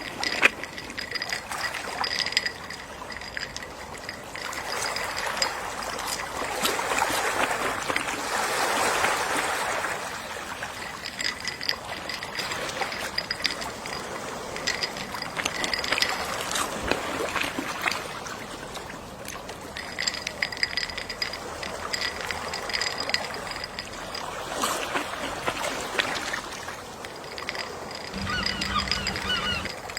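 Gentle sea waves lapping and washing in, swelling and falling back every several seconds, with small splashing clicks.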